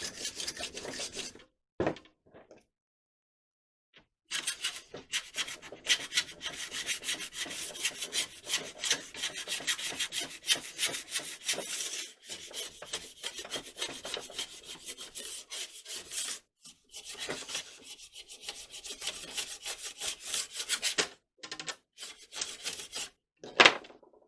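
A hand scraper scraping hardened excess glue off a wooden rod part in quick repeated strokes, in long runs with short pauses. Its user feels the scraper needs honing.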